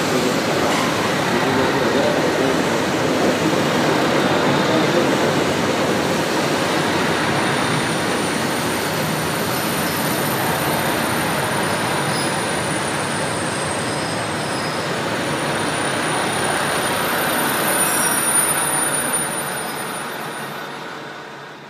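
Express train running past a station platform at speed: a steady noise of wheels on rail that fades away over the last few seconds as the last cars go by.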